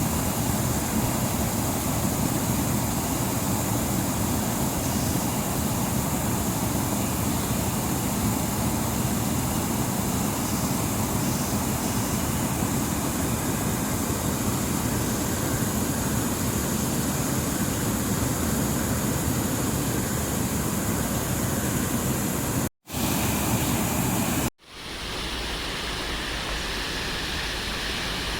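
Rain-swollen water rushing steadily over a check dam, with a deep rumble under the rush. It cuts out twice near the end, then carries on thinner, with less of the low rumble.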